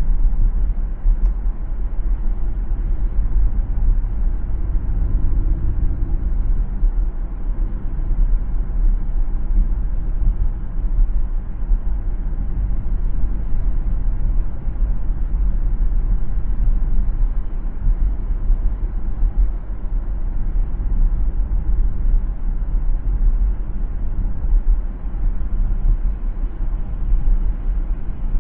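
Steady low rumble of road and tyre noise from a car driving along a city road.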